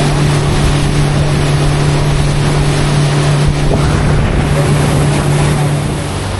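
Motorboat engine running steadily under way, with wind buffeting the microphone and water noise; near the end the engine note drops lower.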